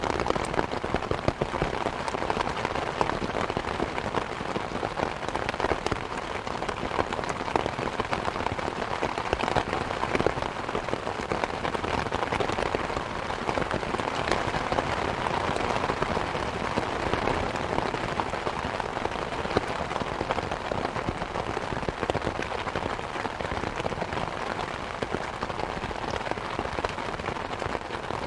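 Steady rain mixed with a crackling wood fire in a fireplace: an even hiss dotted throughout with small sharp pops and clicks.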